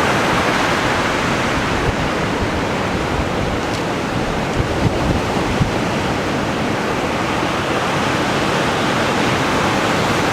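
Heavy typhoon surf breaking and washing onto the beach in a continuous roar of white noise, with no letup.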